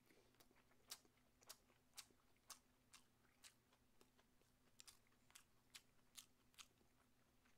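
Faint, close-miked chewing of pan-fried tofu, a soft mouth click about twice a second in a steady rhythm.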